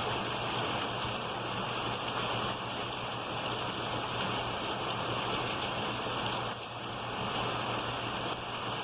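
Pouring rain falling steadily, a constant hiss of water.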